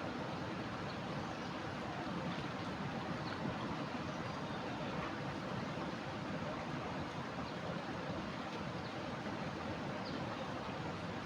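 River in flood rushing past, a steady noise of fast water.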